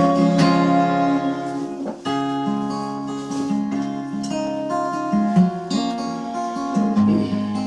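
Acoustic guitar strummed in an instrumental break between verses of a song, ringing chords that change every second or so.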